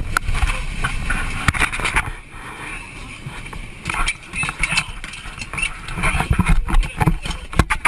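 Rough on-board camera audio after an airliner crash: irregular knocking, clattering and rustling of handling, with indistinct voices.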